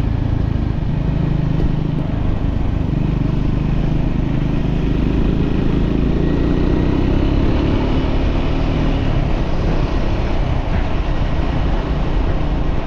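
A motor vehicle engine running under way, with steady road and wind noise. The engine pitch climbs and eases off again about halfway through.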